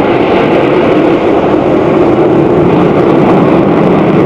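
Red Arrows' BAE Hawk T1 jets flying the display, a loud, steady jet noise.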